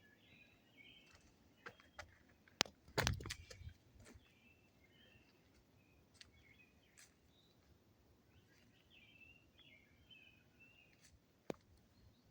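Small birds chirping and twittering in the background, with a sharp crack and a short crackling rustle about three seconds in, then scattered faint clicks.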